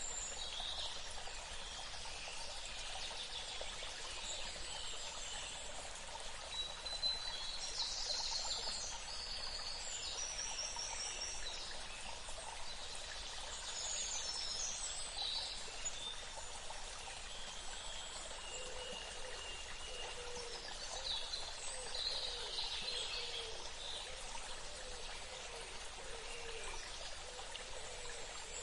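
Flowing water, a stream trickling steadily, with birds calling and chirping over it in short high notes. In the second half, a run of short, lower-pitched calls repeats several times.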